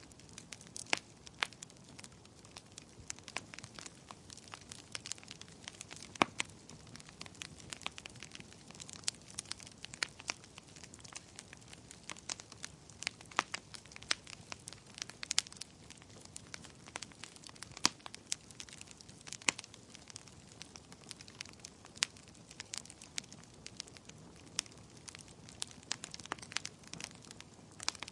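Wood fire crackling, with irregular sharp pops and snaps over a soft, steady hiss of burning.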